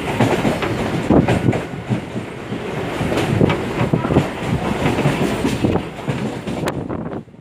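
Train wheels clattering over rail joints and points at low speed: a continuous rumble with many irregular knocks. The sound cuts off suddenly near the end.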